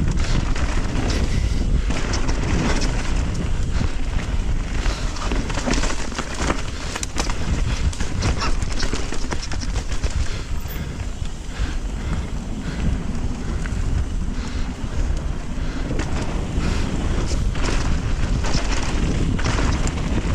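Mountain bike ride down a trail: wind buffeting the microphone, with the bike rattling over rough ground in frequent sharp clicks and knocks.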